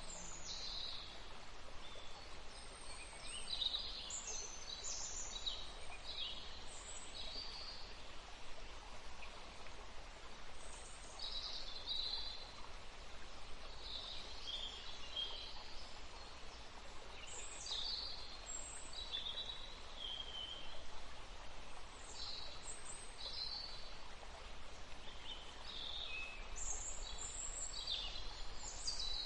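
Several forest birds calling and singing in short chirping phrases, one after another, over a steady soft hiss of breeze.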